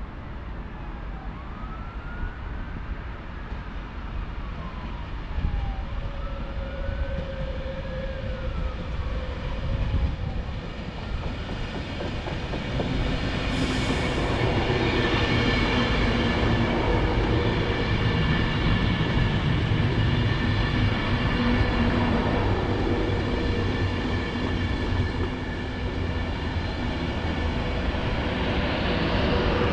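A train moving at the station, with whines that rise and fall in pitch over the first several seconds. About twelve seconds in it grows louder and steadier, with held high-pitched tones over a rumble.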